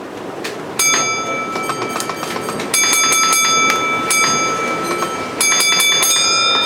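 Model train running on the layout, its wheels clicking steadily over the track, with a high, steady ringing squeal that comes in three spells.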